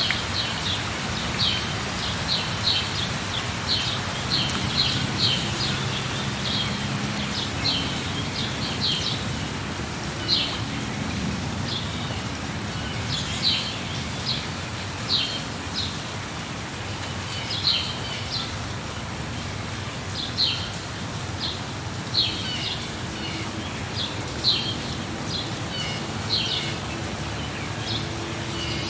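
Steady rain with a bird chirping over it, short high calls one or two a second, more spaced out after the first third.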